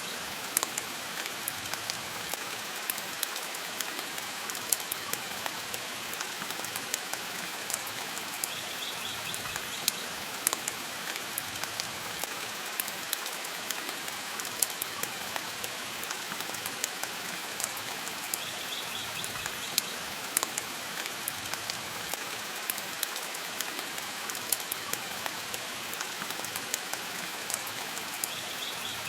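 Steady rain hiss mixed with the sharp crackles and pops of a wood fire burning in a fireplace, with frequent irregular clicks throughout.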